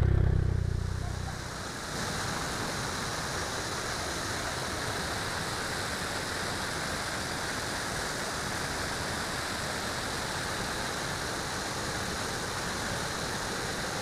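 Steady, even rush of a waterfall over rapids. A motorcycle engine dies away during the first second or two.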